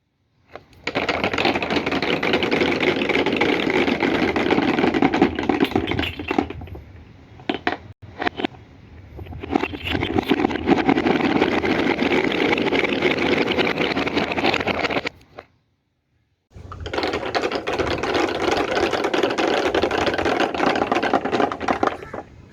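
Red snooker balls rolling and clattering down a wooden track in a fast, continuous rattle, heard as three runs of several seconds each with short breaks between.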